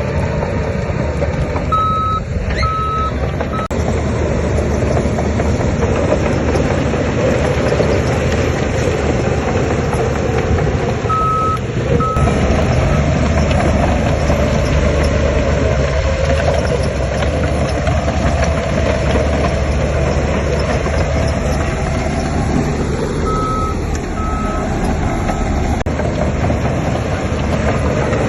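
Heavy construction machinery's diesel engine running steadily, with a reversing alarm beeping in three short spells of two or three beeps each as a machine backs up.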